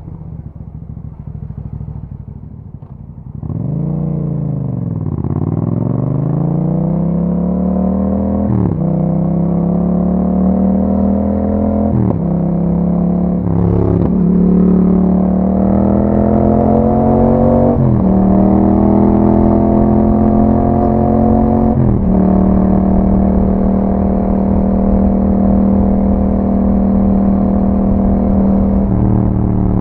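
Yamaha MT-07's parallel-twin engine through an Akrapovic exhaust, running low for a few seconds, then pulling away and accelerating. The engine note climbs and dips briefly at each upshift. It then holds a nearly steady note while cruising.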